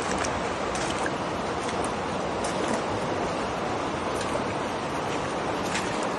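Floodwater rushing steadily, a continuous wash of running water with a few faint splashes or ticks over it.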